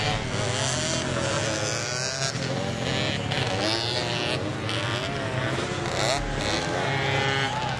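Several motocross dirt bikes racing, their engines revving up and down in overlapping, wavering pitches.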